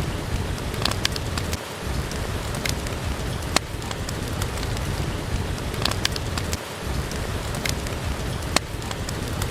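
Steady rain with an irregular scatter of sharp pops from a crackling wood fire.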